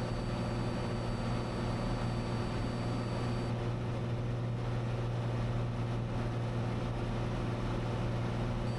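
Cessna 182's six-cylinder piston engine and propeller droning steadily in climbing flight, heard from inside the cabin.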